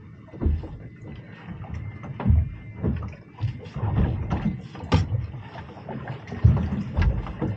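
Small anchored fishing boat: irregular low thumps of water and wind against the hull, with a few sharp knocks and clicks.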